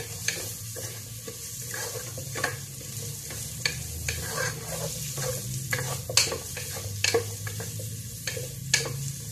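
Onion and garlic sizzling in hot olive oil in a frying pan while a wooden spatula stirs them, scraping and knocking against the pan at irregular moments, most sharply about six and nine seconds in. A low steady hum runs underneath.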